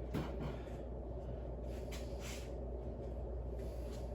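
Steady low background hum with a few faint, short breaths from a lifter resting between sets.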